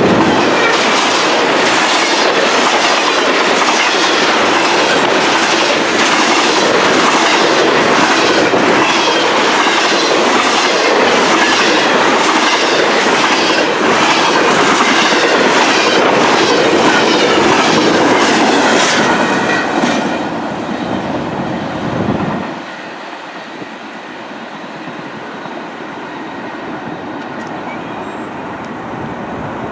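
Canadian National double-stack intermodal train's cars passing at speed, their wheels clicking rhythmically over the rail joints. About twenty seconds in the noise falls away as the train goes by, leaving a quieter steady hiss.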